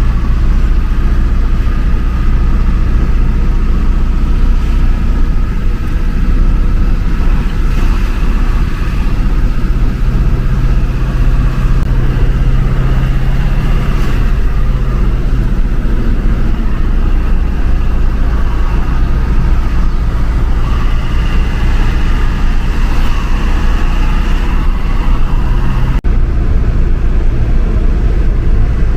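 Steady low drone of a vehicle's engine and road noise while driving, changing abruptly about 26 seconds in.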